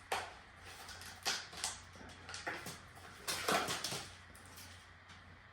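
A few short knocks and rustles from a decorated gingerbread house being handled on a work surface, over a steady low hum.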